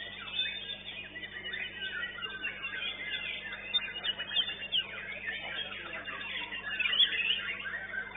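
White-rumped shamas singing in a crowded chorus: many overlapping whistles, trills and quick chirps, with no pause.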